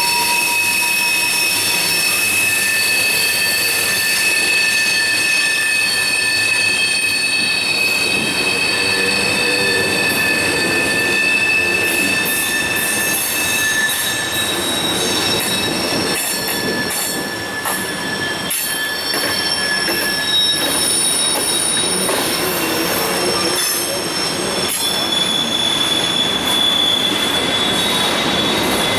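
Freight train cars rolling past with their wheels squealing in several high, steady tones that shift in pitch from car to car, over loud rolling noise with a few sharp clicks.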